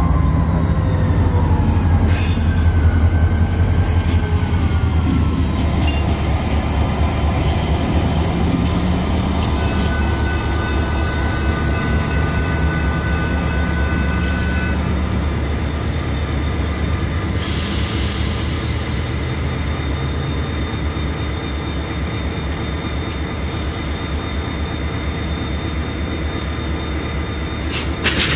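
A train rolling past on the rails with a heavy, rapid rumble of wheels on track. High ringing squeal tones from the wheels sound over it, and several tones fall in pitch during the first few seconds. A brief sharp burst comes near the end.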